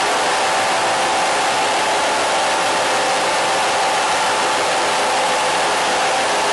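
Steady, unchanging hiss of static noise, with a few faint steady hums in the middle range running through it.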